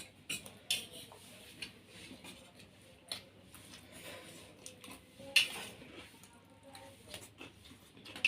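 Cutlery clinking and scraping against plates while eating, in scattered short clicks with one sharper clink about five seconds in.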